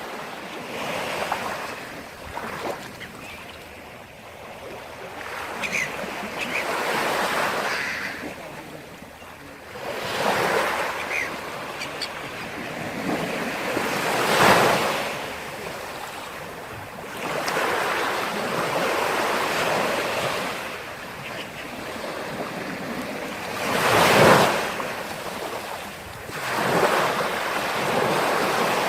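Sea waves breaking on the shore, the rush of surf swelling and falling away every few seconds. The loudest crashes come about halfway through and again near the end.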